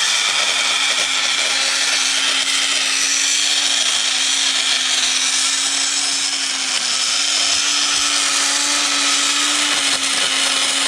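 Handheld power tool running steadily under load, a constant whine over a grinding hiss, as it grinds or drills out metal bolt holes to line up a T5 transmission with a bell housing.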